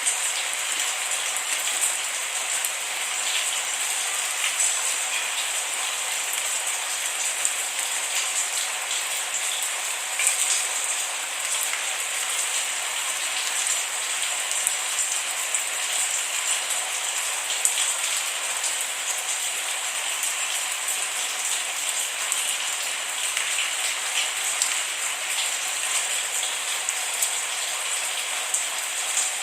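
Steady rain with many close, crisp drop ticks scattered through a hiss, no thunder.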